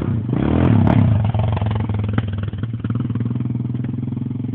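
An engine revs briefly, rising and falling in pitch in the first second or so, then settles into a steady idle.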